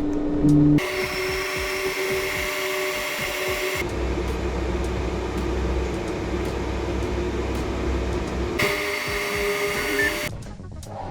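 3D printer's motors running with a steady mechanical whine and hum, in short clips that cut abruptly from one to the next.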